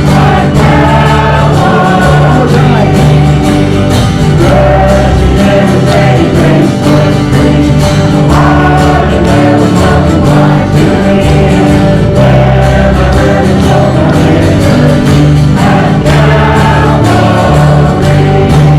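Congregational worship singing: a choir of voices singing a gospel-style hymn with instrumental accompaniment and a steady bass line.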